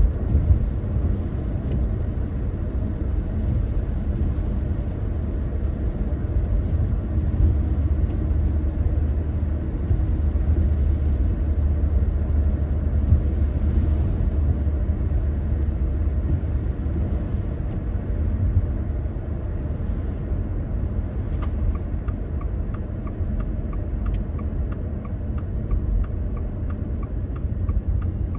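Steady low road rumble of a car being driven. About three-quarters of the way in, an even ticking starts, typical of a car's turn indicator clicking.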